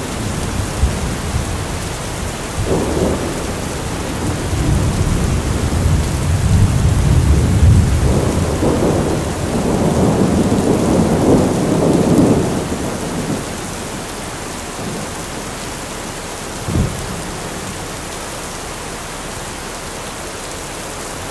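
Steady rain with rolling thunder: two long rumbles swell and fade in the first half, and a short sharp thunderclap comes later.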